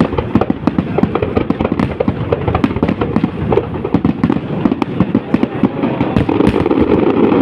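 Fireworks going off in a rapid, continuous barrage of sharp bangs and crackles, many a second.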